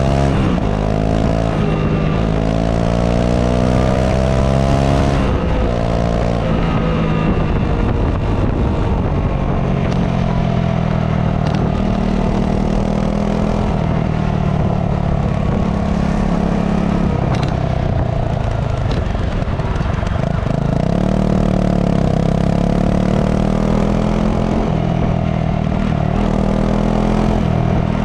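Honda CRF250 Rally's single-cylinder four-stroke engine running through its stock exhaust. The engine pitch rises and falls several times in the first few seconds, then holds fairly steady, dipping and climbing again about two-thirds of the way through.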